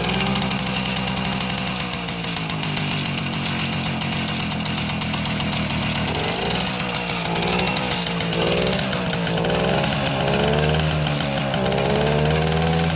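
Babetta 206 moped's 50 cc two-stroke single-cylinder engine running just after a cold start, a steady buzzing idle. From about six seconds in, the engine speed rises and falls several times.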